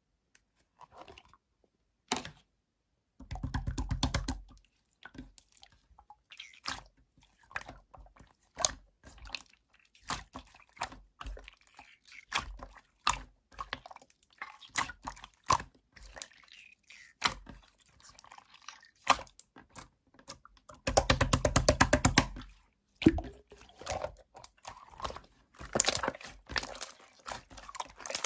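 Close-up clicks, taps and crinkling from objects being handled, with two stretches of fast, even rattling, one a few seconds in and one near the end.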